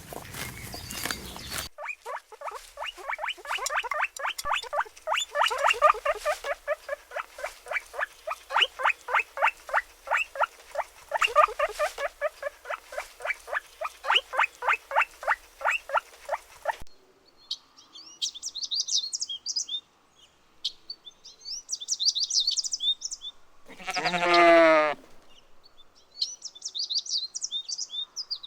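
A rapid run of short animal calls, about four or five a second, goes on for some fifteen seconds and then cuts off. Small birds chirping in short bursts follow, with one loud call that falls steeply in pitch near the end.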